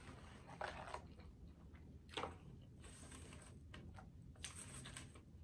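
Faint chewing of a bite of fish sandwich close to the microphone: a few soft, scattered mouth clicks, with a small cluster near the end.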